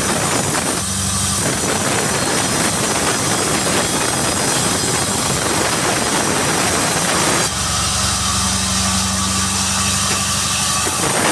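Sawmill machinery running: a saw cutting through a log makes dense, continuous noise over the drone of the engine that drives it. About seven and a half seconds in, the cutting noise falls away, leaving the engine's steady low hum. The cutting comes back near the end.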